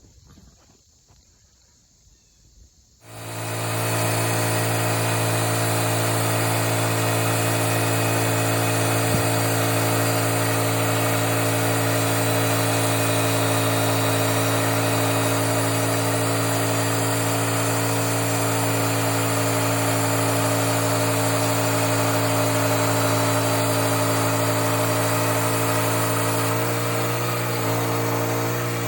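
Small engine starting up loud about three seconds in and then running at a steady, unchanging speed, with a slight change in pitch near the end.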